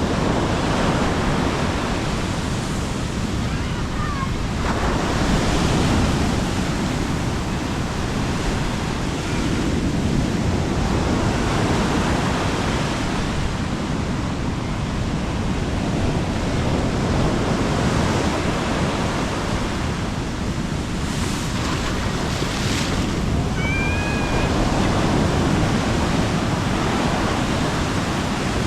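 Sea waves breaking and washing up the beach, a continuous surf noise that swells and eases every few seconds.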